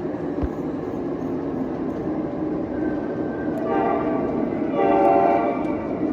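O-scale model ES44 diesel locomotive running on its layout track with a steady rumble, its sound system sounding the horn twice a little past halfway, the second blast louder and longer.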